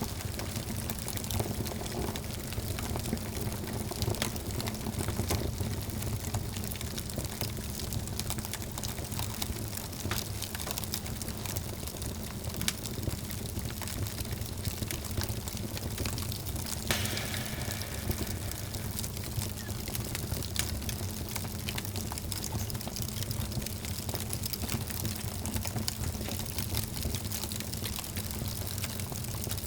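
Wood fire burning in a fireplace: steady crackling with many small pops over the low rumble of the flames, and one sharper pop a little past halfway.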